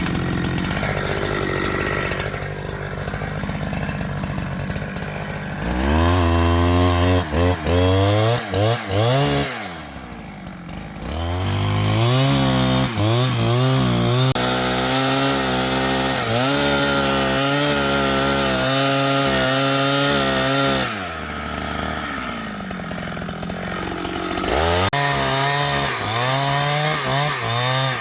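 Two-stroke chainsaw idling, then revved to full throttle in cuts, its pitch rising and sagging as it works. It drops back to idle between cuts: a short burst about six seconds in, a long steady high-revving run from about eleven to twenty-one seconds, then more revving near the end.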